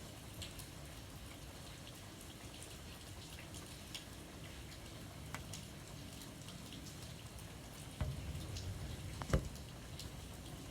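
Light rain falling steadily, with scattered single drops ticking sharply on a surface. A low rumble swells about 8 seconds in, and a single louder knock comes just after 9 seconds.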